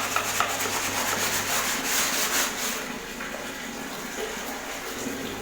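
Unrolled RO water-purifier membrane sheet being scrubbed by hand under water to clear fouling: quick rhythmic rubbing strokes for about the first three seconds, then a quieter, steadier wash of water.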